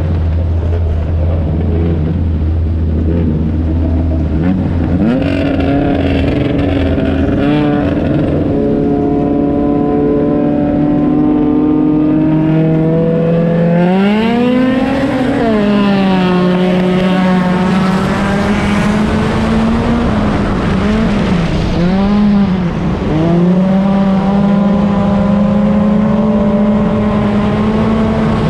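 Stock car racing engine running hard, its pitch climbing slowly, swooping up and back down about halfway through and dipping twice briefly near the end before climbing again.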